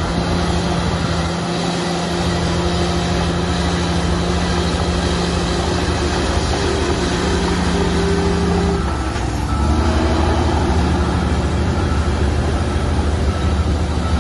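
Heavy diesel engines of earthmoving machinery, a bulldozer working with dump trucks, running steadily under load. About nine seconds in, the engine note dips and shifts, then carries on lower and somewhat louder.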